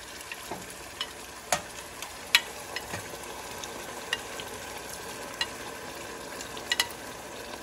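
A chorizo, tomato and onion sauce sizzling steadily in a stainless steel pan, with scattered sharp pops and spits, as pickled chiles and their vinegar are tipped in.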